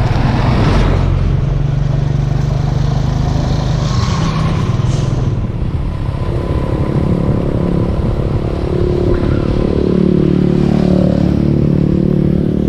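Habal-habal motorcycle engine running steadily on the move, with low rumble from the ride; the engine note gets higher about halfway through.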